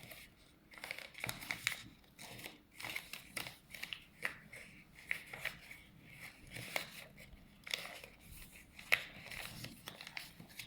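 Sheet of paper crinkling and rustling in the hands as flaps of a paper airplane are folded and tucked under, with irregular crackles and a few sharper snaps of creasing.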